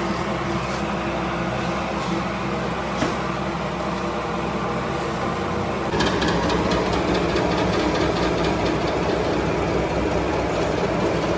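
Tyre factory machinery running with a steady hum. About six seconds in it changes abruptly to a louder, rougher machine sound with a quick run of rapid clicking.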